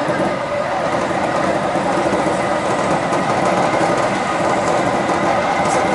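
Seibu Railway electric commuter train running at speed, heard from inside the car: a steady rumble of wheels on rail with a constant whine from the drive.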